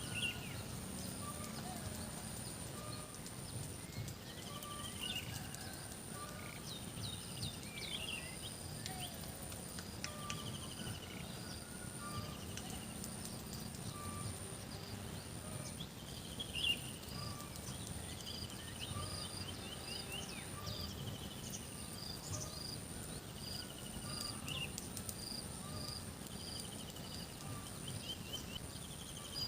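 Rural outdoor ambience of birds chirping and trilling with short repeated calls throughout, over a steady high-pitched whine and a low rumble.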